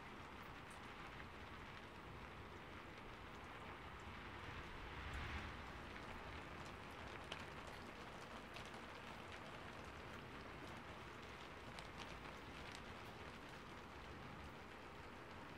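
Faint, steady rain falling, with a brief swell about five seconds in and a few sharper drips ticking here and there.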